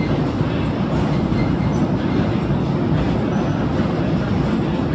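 Narrow-gauge sugar-railway tourist train running, heard from on board: a steady low rumble and rattle of the carriage on the track.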